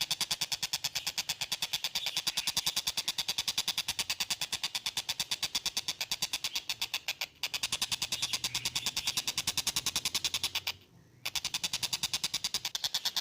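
A tengkek buto kingfisher calling a rapid, even, machine-like rattle of sharp notes, about eight a second, that sounds like a train; it breaks off briefly once, about two seconds before the end.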